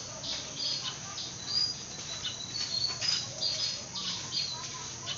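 Small birds chirping in many short, high notes, mixed with the rustle of cloth being handled.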